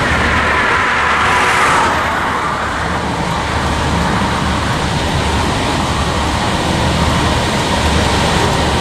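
Union Pacific manifest freight train rolling past as it slows, a steady low rumble of wheels on rail, with a high squeal in the first two seconds.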